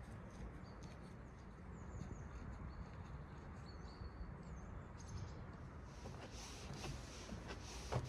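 Faint chirps from small birds, a few short high calls that slide in pitch, over a steady low rumble; near the end a hiss grows and a single sharp click sounds.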